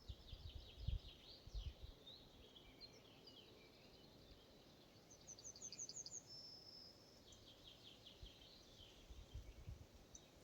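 Faint forest ambience with a songbird singing the same song twice, about six seconds apart: each time a quick run of high notes, a short held whistle, then a string of quick falling notes. Soft low rumbles come and go near the start and again near the end.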